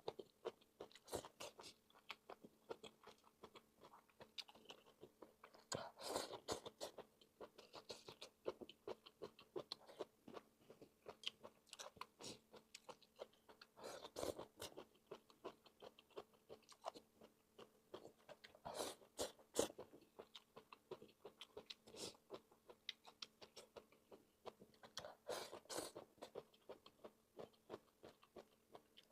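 Close-up chewing and biting of crunchy stir-fried bamboo shoots: a stream of soft, wet mouth clicks, with louder crunching bites every few seconds.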